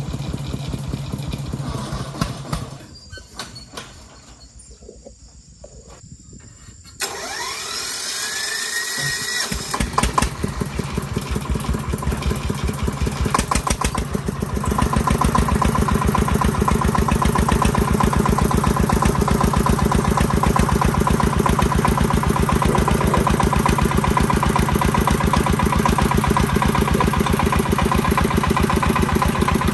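A farm vehicle's engine runs, goes quiet after a couple of seconds, and is restarted. A rising whine comes about seven seconds in, the engine catches a couple of seconds later, and from about halfway it runs louder and steadily.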